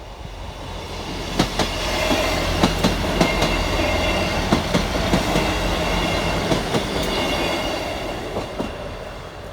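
Train passing over a level crossing, growing louder, then fading, its wheels clicking sharply over the rail joints many times as it goes by.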